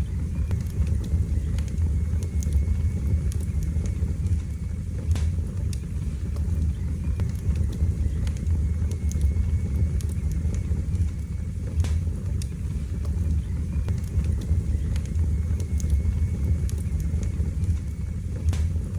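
Wood fire burning in a fireplace: a steady low roar of flames with scattered sharp crackles and pops, and a faint thin whistle that comes and goes.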